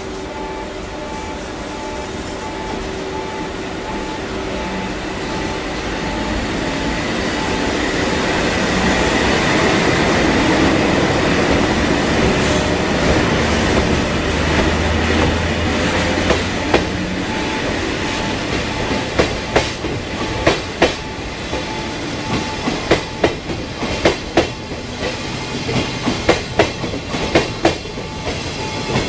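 An EF81 electric locomotive pulls away and passes with a steady hum and a rising rumble. The 24 series sleeper coaches then roll by, their wheels clicking rhythmically over the rail joints from about halfway, the clicks coming faster as the train picks up speed.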